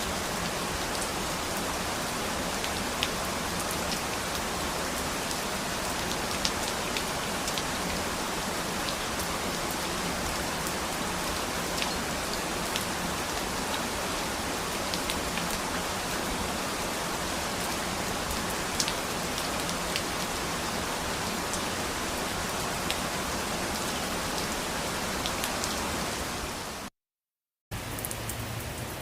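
Steady rain falling, an even hiss with scattered single drops ticking through it. About 27 seconds in it fades out into a moment of dead silence, then starts again slightly quieter, like a splice between recordings.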